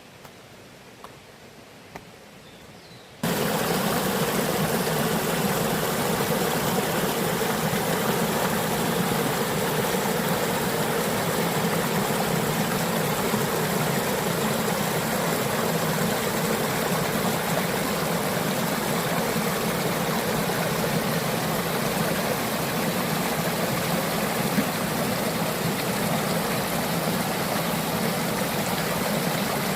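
Quiet forest background with a few faint ticks, then about three seconds in an abrupt cut to the steady, loud rush of a mountain valley stream's water.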